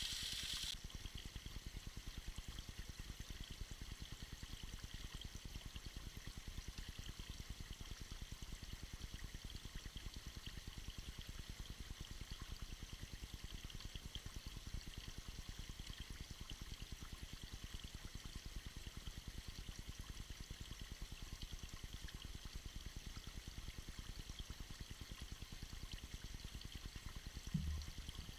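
Small icy waterfall trickling and splashing in a steady stream. A brighter hiss cuts off less than a second in, and there is a brief low thump near the end.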